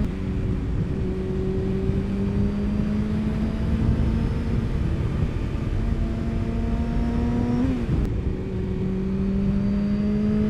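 Motorcycle engine pulling under way, its pitch climbing slowly, with a short break about eight seconds in before it climbs again, over steady wind rush.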